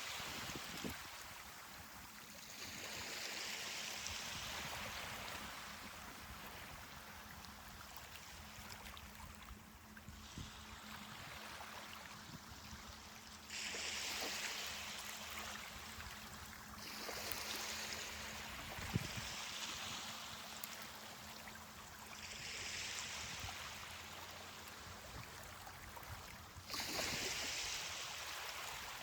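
Ocean surf washing onto a beach: swells of hiss that rise and fade about five times, some of them starting suddenly.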